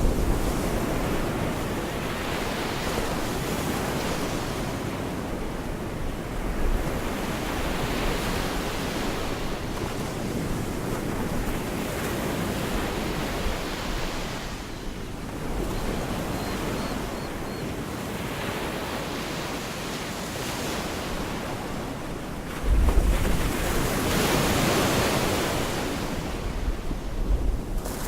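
Gulf of Mexico surf: small waves washing onto a beach in a steady hiss that swells and ebbs every few seconds. Wind buffets the microphone, with low rumbling gusts, the strongest about 23 seconds in.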